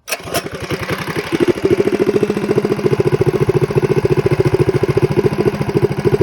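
Predator 212cc single-cylinder four-stroke engine on a minibike running steadily with rapid, even firing pulses, building up over the first second and a half. The carburetor has just been tuned, and the owner thinks it is mostly dialed in.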